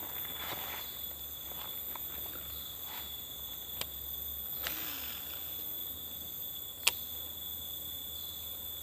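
Steady high-pitched insect chorus, several unbroken tones at once, with a few faint rustles early on and two sharp clicks, the louder about seven seconds in.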